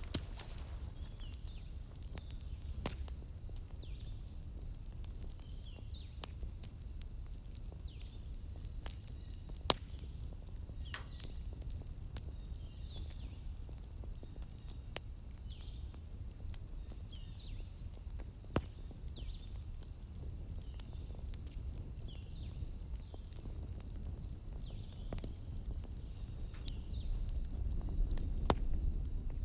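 Wood fire crackling with occasional sharp pops, over a steady high insect chorus and a short falling call that repeats about every second and a half.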